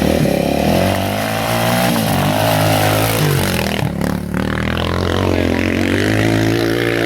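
Volkswagen Golf rally car's engine revving up and down unevenly. It sounds sick, with the car being nursed along.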